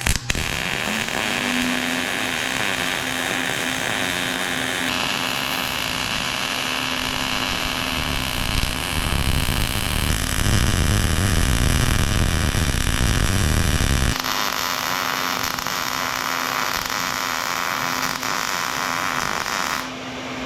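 MIG (wire-feed) welder arc crackling steadily as it lays weld, over a faint steady low hum; the sound shifts abruptly a few times.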